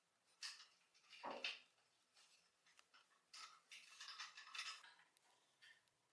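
Faint, scattered clicks and scrapes of small metal parts being handled, with a light knock about a second in and a run of scraping near the middle.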